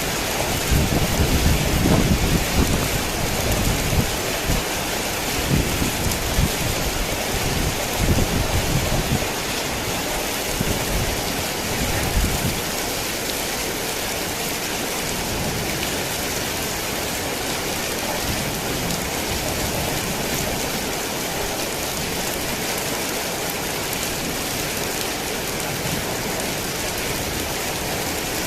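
Heavy rain falling steadily, with a low rolling rumble of thunder for the first twelve seconds or so that then dies away, leaving only the rain.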